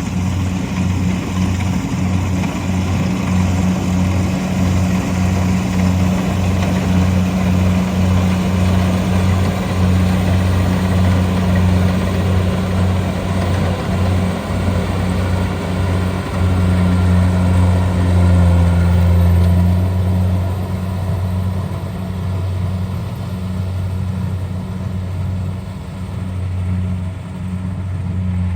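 The engine of a rice-harvesting machine running steadily with a deep hum, over a rattling, whirring clatter of working machinery. It throbs unevenly for the first half, then runs smoother and loudest a little past the middle.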